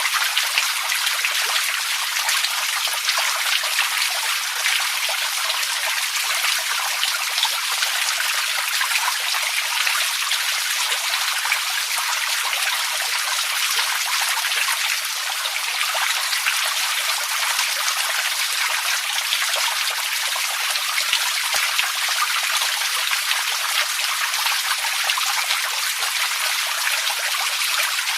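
Running water: a steady, even rush of fine splashing, mostly high in pitch with little low end.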